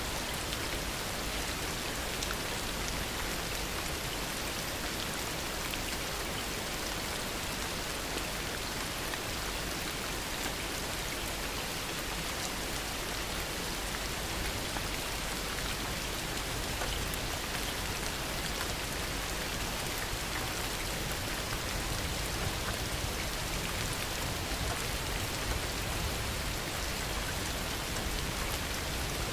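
Heavy rain falling steadily: a dense, even hiss of rain with countless small drop ticks.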